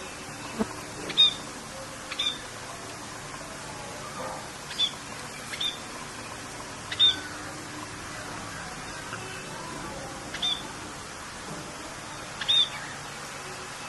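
Steady rain hiss with a bird giving short, sharp calls, about seven in all, spaced a second or more apart.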